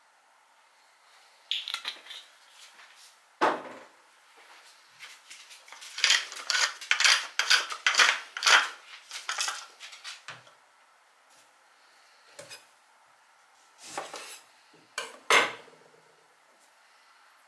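A hand pepper mill grinding black pepper over a bowl: a run of rapid crackling clicks lasting about four seconds. Around it come a few sharp knocks of kitchen tools on a wooden cutting board, including two near the end as a lime is cut in half with a chef's knife.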